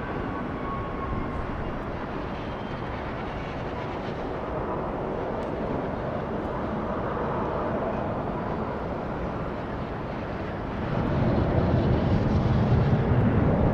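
Jet airliner engines heard across the airfield: a steady rushing noise that grows louder and deeper about eleven seconds in as the aircraft comes closer.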